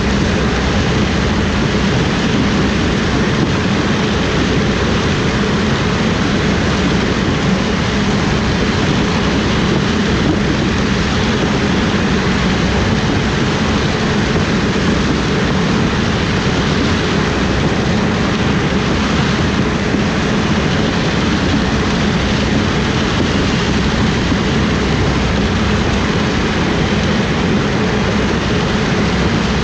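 Corn harvest machinery running steadily: a loud, even engine-and-machinery drone that does not change.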